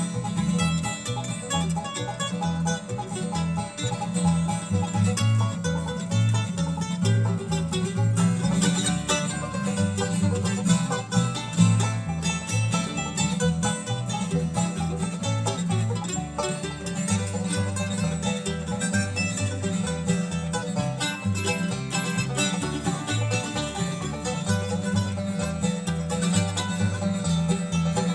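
Live acoustic bluegrass band playing an instrumental break with no singing, plucked strings over a steady, pulsing bass line.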